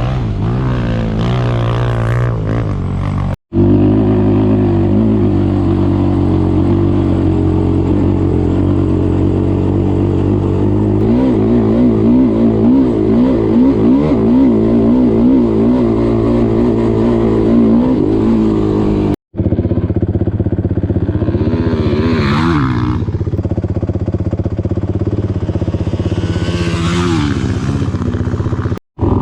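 An off-road vehicle's single-cylinder four-stroke engine under way on dirt, revving up and down as it is ridden. Two short rushing hisses come later on, and the sound drops out for an instant twice at edit cuts.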